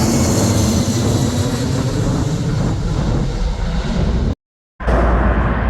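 Departing jet airliner's engines, a loud, steady roar from a plane climbing out. The sound drops out briefly about four seconds in and comes back as a lower rumble.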